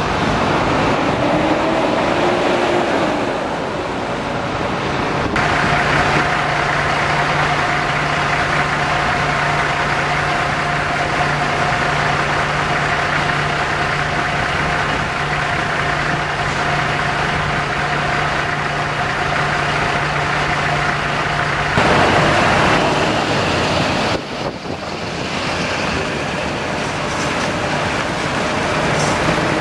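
Steady motor-vehicle engine and road noise. A constant low hum with a higher steady tone over it starts suddenly about five seconds in and stops suddenly about twenty-two seconds in.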